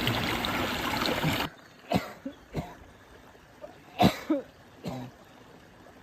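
Water pouring from a fish pond's drain outlet, cut off abruptly about a second and a half in; then a man coughing and clearing his throat in a string of short coughs, from exertion.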